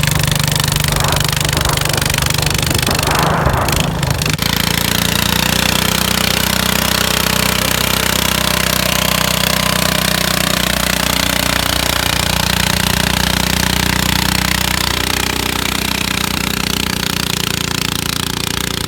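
Loud engine of a modified garden tractor running hard at a steady pitch, with a brief change in the sound about three to four seconds in.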